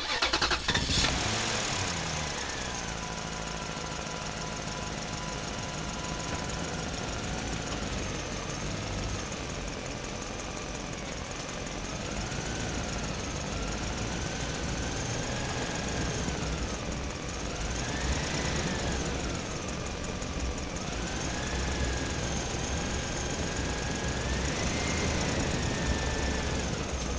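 Small electric motor and gearing of a wired homemade toy tractor running, a thin whine whose pitch slowly rises and falls every few seconds.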